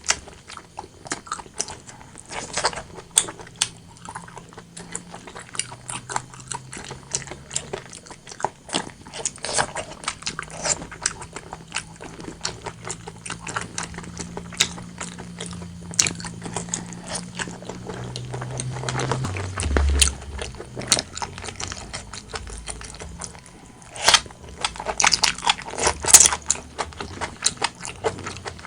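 Close-miked mouth sounds of someone eating braised pork belly and rice: chewing with many short wet clicks and smacks, denser and louder near the end.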